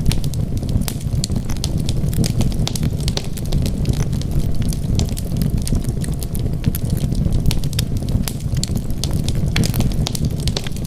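Wood fire crackling: many irregular sharp pops and snaps over a steady low rumble of burning logs.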